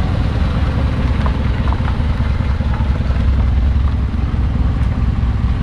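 Hindustan Contessa's non-turbo diesel engine running steadily, with a deep, even low-end throb.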